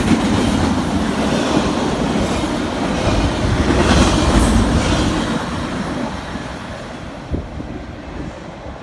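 Double-stack intermodal freight cars rolling past on steel rails, a dense rumble with wheels clattering. The sound fades away over the last few seconds as the end of the train goes by.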